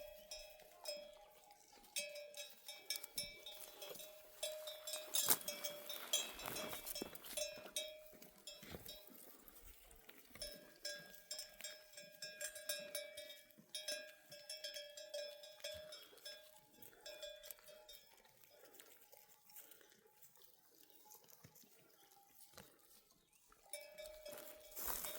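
Neck bells on a grazing flock of sheep, clanking and tinkling irregularly as the animals move.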